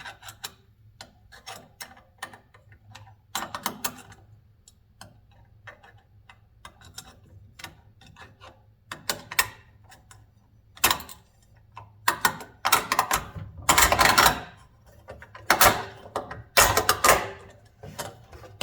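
Small metal motor parts and screws being handled: irregular clicks and rattles that come thicker and louder in the second half, over a faint steady low hum.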